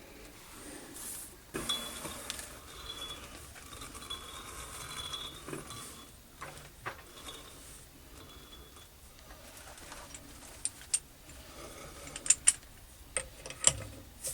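Metal hand tools being handled, with scattered sharp clicks and clinks in the second half. Earlier there are a few seconds of a steady noise carrying a faint high tone.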